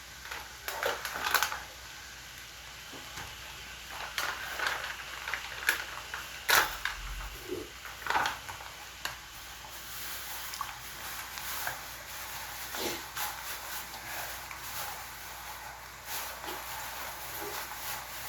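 Irregular clicks, knocks and brief rustles of food being handled and prepared in a kitchen.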